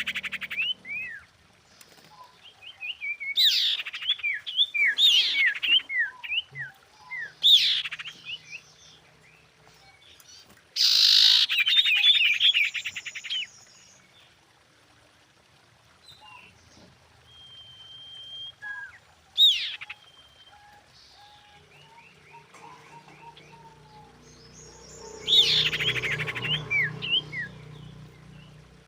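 Female common iora calling in separate bursts of quick, chattering, down-slurred notes, repeated several times with pauses between, and one short steady whistle about halfway through.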